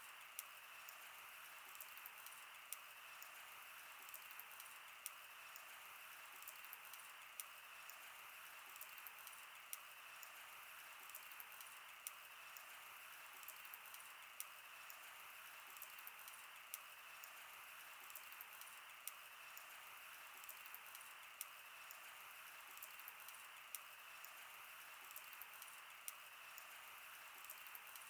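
Wood fire burning: a steady soft hiss with irregular sharp crackles and pops, several every few seconds.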